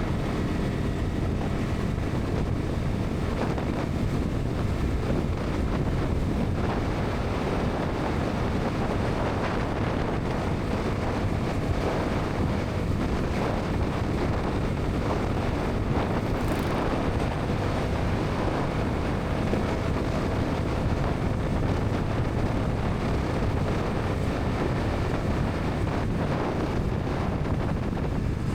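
Steady wind rush on the microphone at highway speed, over the Bajaj Pulsar NS 200's single-cylinder engine and exhaust running at a constant cruise.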